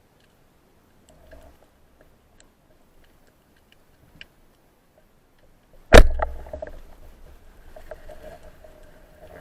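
A few faint ticks, then a single loud, sharp knock about six seconds in, followed by a fading low rumble and a steady low noise.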